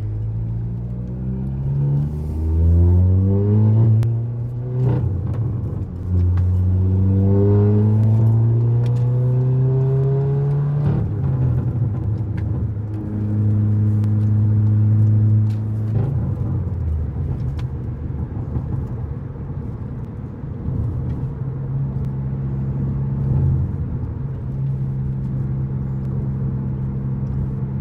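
Straight-piped, catless Volkswagen MK7 GTI with a CTS downpipe, its turbocharged 2.0-litre four-cylinder pulling up through the gears. The exhaust note climbs in pitch and drops at each shift. After about eleven seconds it settles into loud steady cruising.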